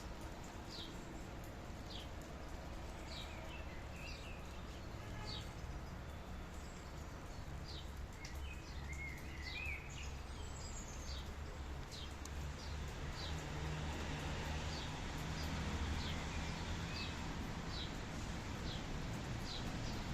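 Steady hiss of rain with a bird repeating short, high, falling chirps about once a second, and now and then a lower warbling call. A low hum lies underneath and grows a little louder in the second half.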